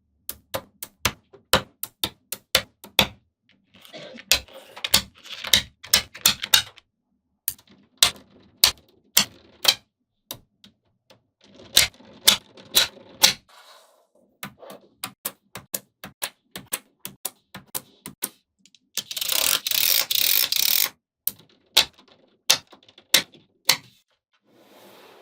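Small magnetic balls clicking sharply as they snap together one by one, in an uneven run of single clicks. Twice there are short stretches of denser rattling, and a louder rattle of balls lasts about two seconds near the end.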